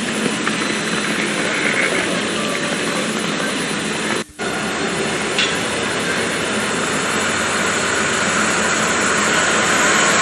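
Railway station ambience: a steady rushing noise, broken by a short dropout about four seconds in where the recording is cut, then growing slowly louder as a distant train draws nearer.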